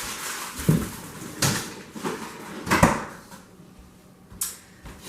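A few separate knocks and clatters of kitchen items being handled on a counter, the loudest nearly three seconds in.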